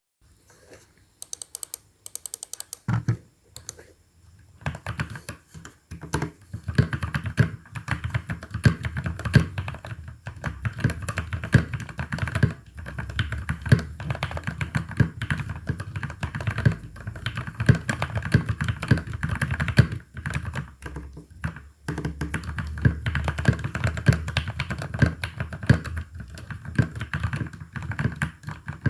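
Typing on a Rexus Daiva D68NF mechanical keyboard with lubed Outemu Brown tactile switches. A few separate key clicks come first, then continuous fast typing with only a brief pause a little past the middle.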